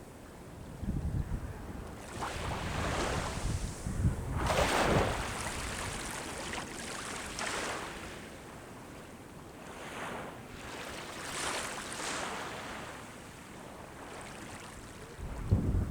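Sea waves breaking and washing up the shore, swelling and fading in several surges a few seconds apart. Wind buffets the microphone with a low rumble at times.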